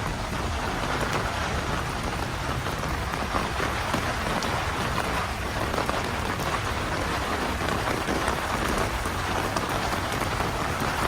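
Heavy rain pouring steadily, a dense even patter.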